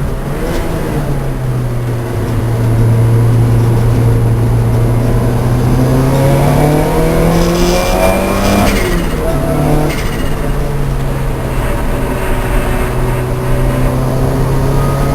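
Lancia Delta race car engine running hard: a steady drone that climbs in pitch for a couple of seconds near the middle, then drops sharply at a gear change and settles again.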